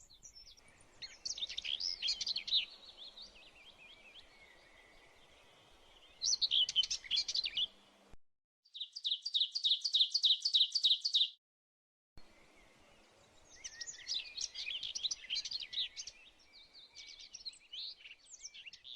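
Songbirds singing: several chirping, twittering phrases, with an even trill of about five notes a second in the middle. The sound cuts out abruptly twice.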